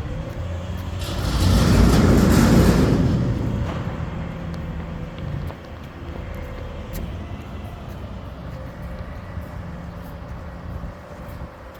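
Garbage truck engine running steadily, with a loud rushing hiss that swells about a second in and dies away by about four seconds.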